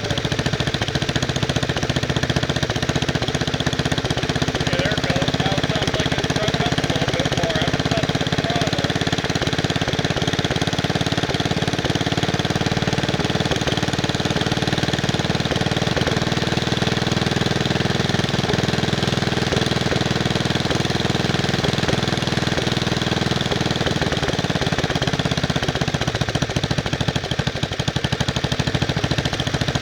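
Wisconsin S8D single-cylinder air-cooled engine of a 1969 Bolens 850 garden tractor running steadily at a constant speed, with a fast, even firing beat.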